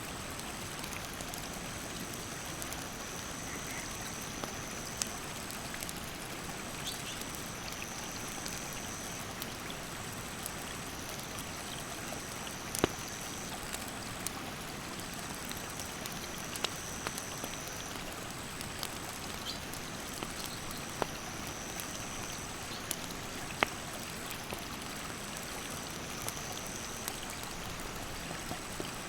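Wood campfire crackling, with scattered sharp pops and two louder snaps, over the steady rush of a mountain stream. Insects call throughout in two high, thin tones repeated in even pulses, about one a second.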